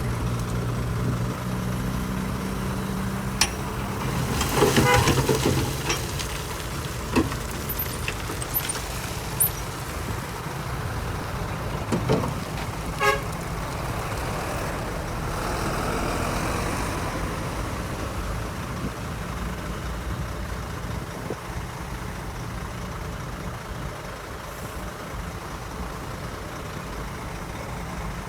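Heavy diesel earthmoving machinery running steadily, with scattered metallic clanks and knocks and a brief louder, horn-like tone about five seconds in.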